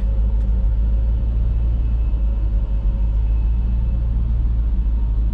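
Small Chevrolet truck driving across a farm field, its engine running with a steady low rumble.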